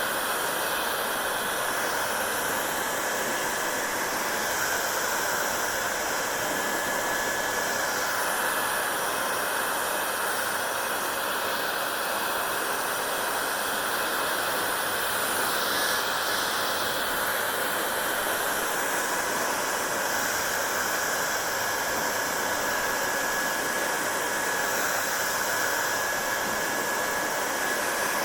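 Hair dryer running steadily: an even rush of air with a faint whine from the motor, shifting a little in the higher hiss now and then.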